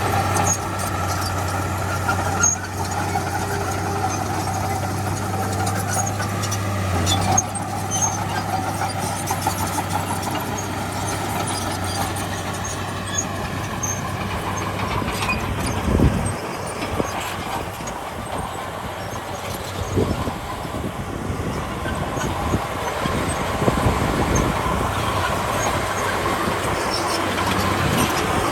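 Crawler bulldozer working: its diesel engine runs steadily while the steel tracks squeal and clank. The low steady engine note drops away about a quarter of the way in, and scattered knocks follow.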